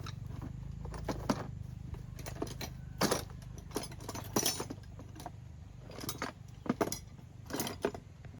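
Metal tools and parts clinking and rattling in a string of short, irregular knocks and jingles, over a steady low hum.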